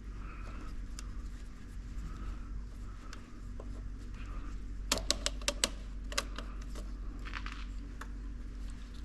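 Steady low hum with a quick run of five or six sharp clicks about halfway through, and a few single clicks after.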